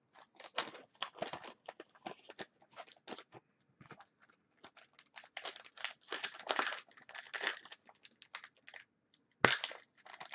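Foil trading-card pack wrappers crinkling and tearing as packs are ripped open and the cards handled, in a run of irregular crackles with a sharper, louder crackle near the end.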